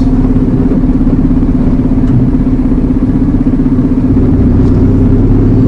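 Iveco Eurocargo lorry's diesel engine running steadily under way, heard from inside the cab, with a deeper hum coming in about four seconds in.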